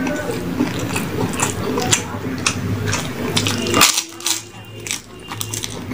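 Close-up eating sounds: chewing and mouth noises with many short clicks and light clinks against a plate as the meal of fish curry, rice and crispy fried food is eaten.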